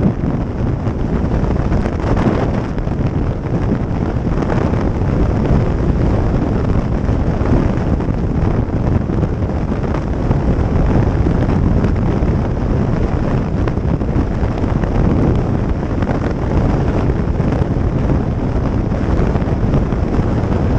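Heavy wind buffeting the microphone of a motorcycle on the move, a steady rushing roar with the motorcycle's running noise underneath.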